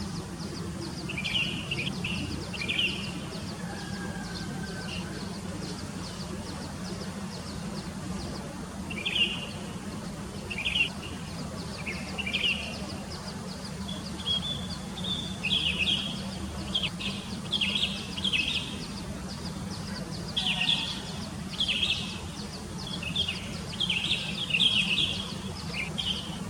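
Small birds chirping in short bursts and clusters over a steady low background rumble. A faint, rapid, even ticking runs high above the chirps for the first half.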